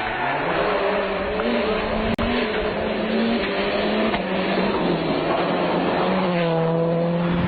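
Rally car engine running hard, its note stepping up and down between gears, with tyre and road noise underneath. A brief break comes about two seconds in.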